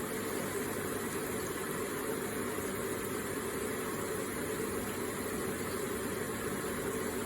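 Electric water feature with water running steadily, a constant even splashing with no breaks.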